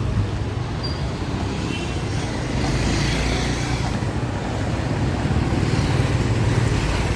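Steady road vehicle noise, engines running with a continuous low rumble, as in city traffic.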